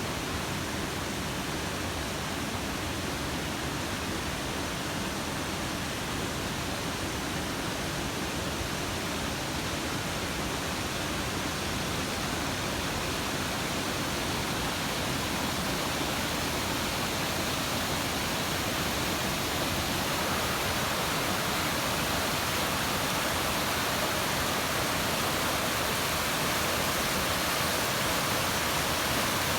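Steady rush of flowing water from a mountain stream or cascade, growing a little brighter about two-thirds of the way through.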